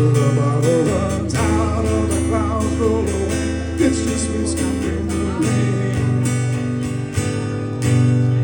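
Closing bars of a country song on strummed acoustic guitar over low sustained notes, ending on a final chord struck near the end that rings out and fades.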